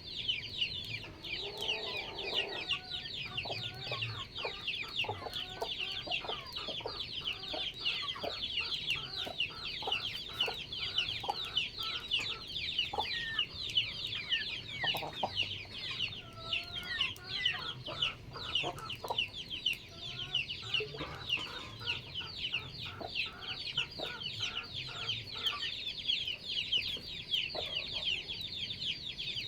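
Backyard chickens clucking in short, scattered calls over a constant dense chorus of rapid high-pitched chirps.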